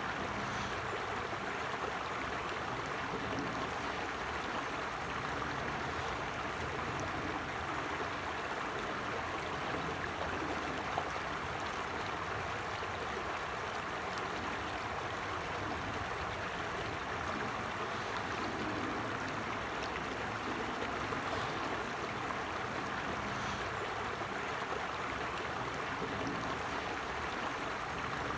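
Forest stream flowing and trickling steadily over rocks, an even rush of running water.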